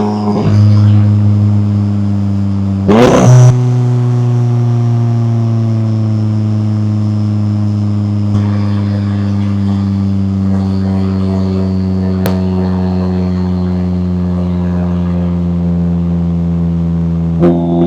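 McLaren 570S twin-turbo V8 exhaust: revs unsteadily, gives a sharp loud crack about three seconds in, then holds a steady drone whose pitch sinks slowly for over ten seconds, before revving up again near the end.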